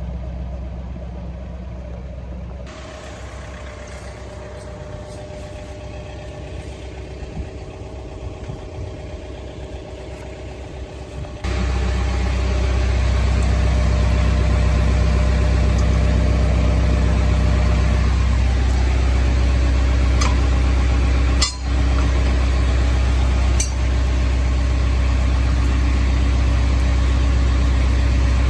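John Deere 4066R compact tractor's diesel engine running at a steady idle, which becomes much louder and closer about eleven seconds in. A few short clicks come near the end.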